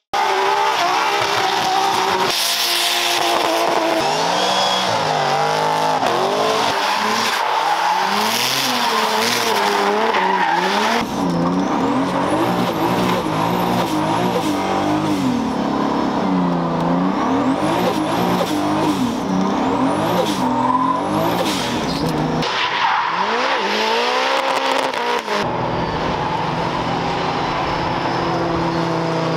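Drift car engines revving hard, pitch rising and falling again and again, with tyres squealing, in several short clips cut one after another. In the last few seconds an engine runs at a steadier pitch.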